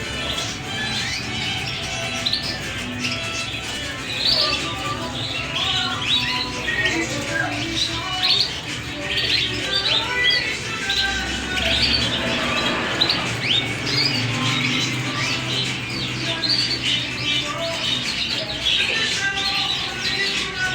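Many caged birds chirping and squawking at once, a dense, unbroken chatter, over background music.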